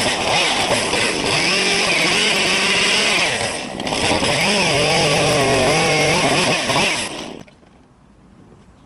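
Chainsaw running and cutting wood while carving, its revs rising and falling, with a short dip in level about a third of the way through. It stops about two seconds before the end.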